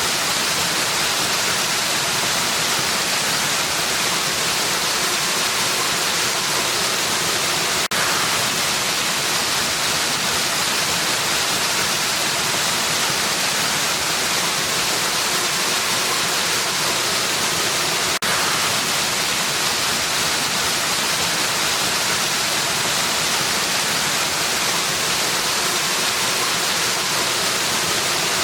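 Waterfall rushing steadily: an even, unbroken hiss weighted toward the high end, with two faint clicks partway through.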